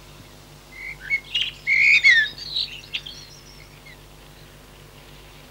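Birds chirping: a short run of high, quick whistled calls with rising and falling notes, lasting about two seconds and then stopping.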